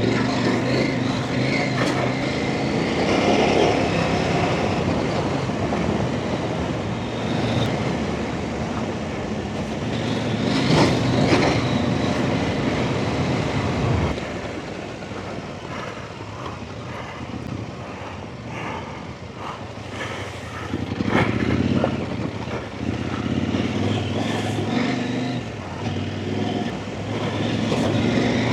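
Off-road dirt bike engine running on a trail under changing throttle, its note rising and falling, over rough noise. It drops quieter about halfway through before picking up again toward the end.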